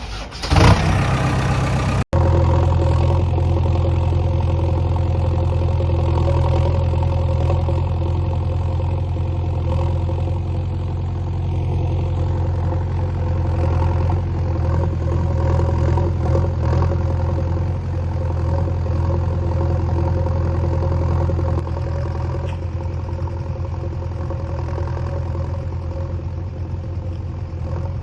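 A short loud rushing noise for the first two seconds that cuts off abruptly. After it, a heavy diesel engine runs steadily at a constant speed.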